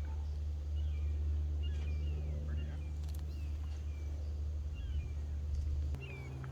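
Wild birds calling with short, repeated downward-slurred chirps, over a steady low rumble.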